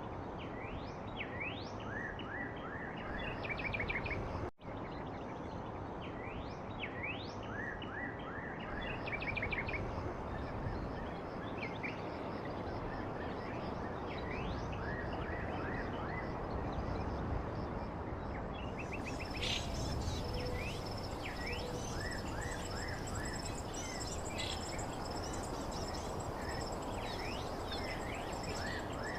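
Birds chirping in quick short rising calls over a steady hiss of background noise, with a momentary dropout about four seconds in and more high calls joining past the middle.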